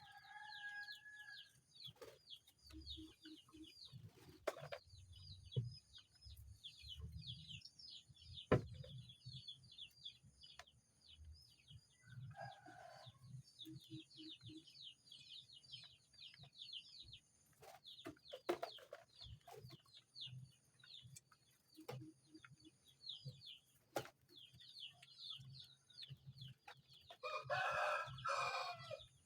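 Chickens: a constant run of rapid, high, falling peeps, with a louder call about twelve seconds in and a rooster crow of about a second and a half near the end. Scattered low thumps sound underneath.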